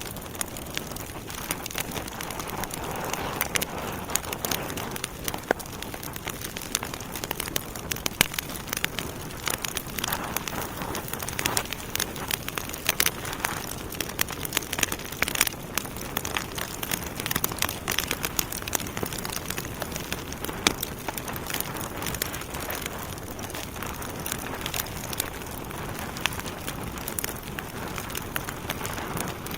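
Wood fire burning in a fireplace, with a steady hiss and many irregular sharp crackles and pops from the logs.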